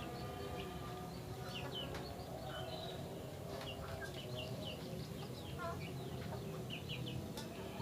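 Small birds chirping in many short, quick calls, with chickens clucking.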